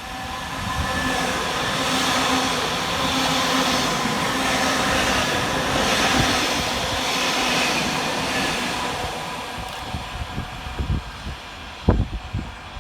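Two coupled Class 331 electric multiple units passing fast through a station: a rush of wheels on rail with a faint motor hum builds, holds steady for several seconds, then fades away. A few short low thumps come near the end.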